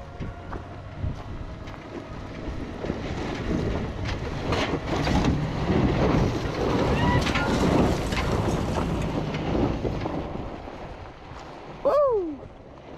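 Off-road 4x4 truck engine revving hard under load as it climbs a steep trail obstacle, with wind on the microphone; it swells to its loudest in the middle and eases off. Near the end a short, loud, falling shout.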